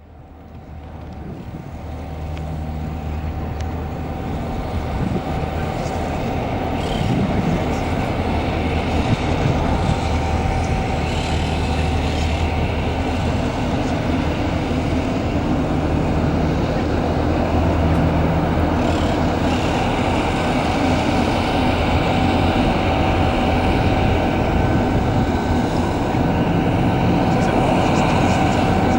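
Bombardier CRJ-900 regional jet on the ramp: a steady jet whine over a low rumble, fading in during the first couple of seconds and growing slightly louder.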